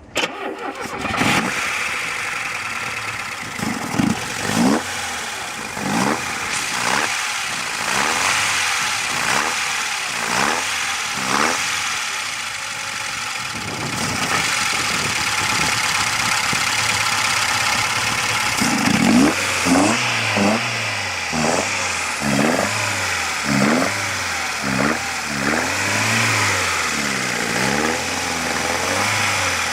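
Engine running and revved in short blips, each a quick rise and fall in revs, about once a second. A steadier stretch sits in the middle, then quicker blips follow near the end.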